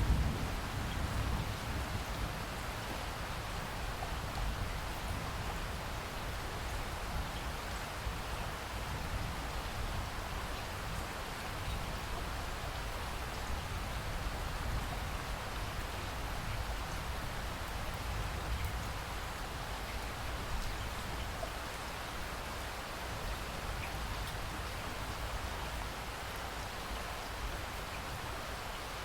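Steady rain falling, an even hiss with a low rumble underneath that is a little stronger about a second in.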